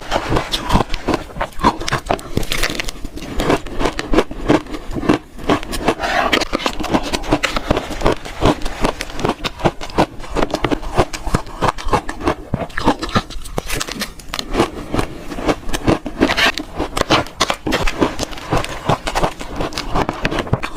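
Close-miked crunching and chewing of shaved ice: a continuous run of dense, crisp crackles with no pause.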